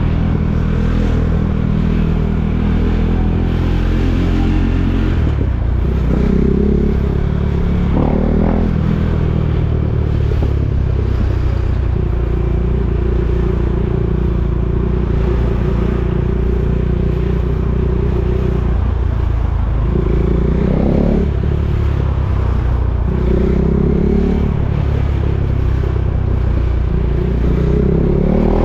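KTM Duke 390's single-cylinder engine running at low revs, with three brief blips of the throttle: about a quarter of the way in, about three-quarters in, and at the very end.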